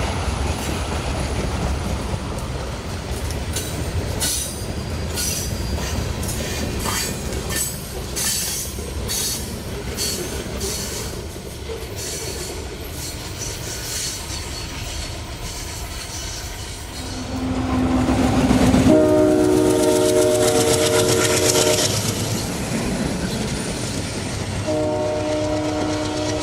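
Diesel-hauled train rumbling past with wheels clicking over rail joints. About two-thirds of the way through, the locomotive's multi-chime air horn sounds a blast of about three seconds, and it sounds again near the end.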